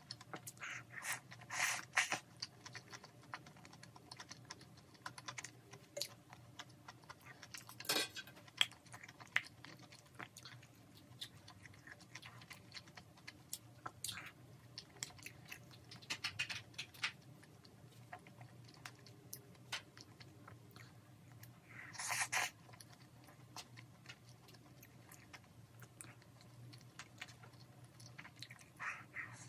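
Close-up chewing and wet mouth sounds from eating stir-fried pork, rice and stew tofu. Many light clicks run through it, with a few louder slurping or smacking noises scattered in.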